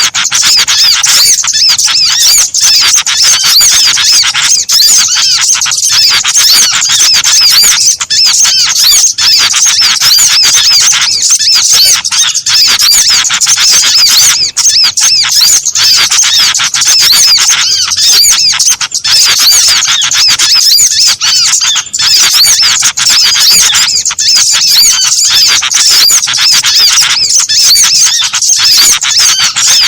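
Bird-lure recording of many small songbirds calling at once: a dense, unbroken chatter of high-pitched chirps and squeaks layered over one another, used to draw small birds in.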